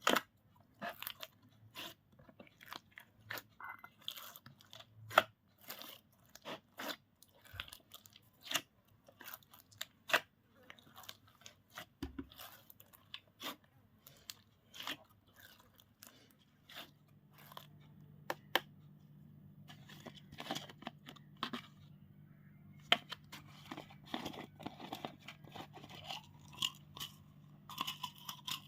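Slime being squeezed and worked by hand, giving irregular crisp pops and crackles, a few a second.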